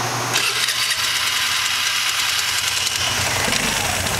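Vespa ET4 scooter's four-stroke single-cylinder engine running steadily. It comes in about half a second in, and a low rumble grows toward the end.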